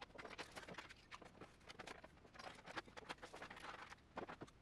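Faint, scattered clicks and taps of small objects from a drawer being handled and set down, a little louder twice near the end.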